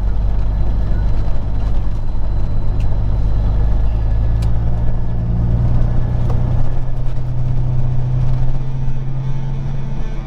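Peterbilt 379 semi truck's diesel engine running as the truck moves slowly, a steady low drone whose lowest note strengthens through the middle and eases near the end.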